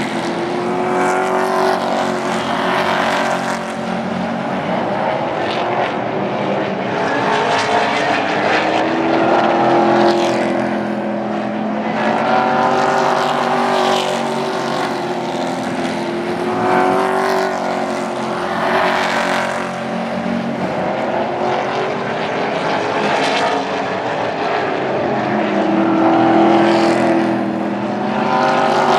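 Super Trucks racing on an oval track, several engines together rising and falling in pitch as the trucks come past and go away, swelling every few seconds.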